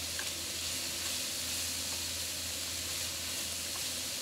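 Sliced pork and shredded cabbage sizzling steadily in a frying pan as they are stir-fried, with a couple of faint taps about a fifth of a second in and near the end.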